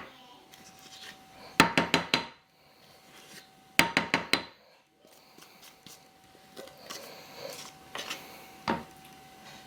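Kitchen cookware knocked sharply, two quick runs of about five knocks each and then a single knock near the end, over a faint steady hum, as batter is worked into a baking pan.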